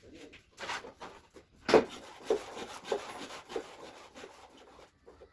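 Repeated hand strokes rubbing across wood, about one every half second or so, the loudest about two seconds in.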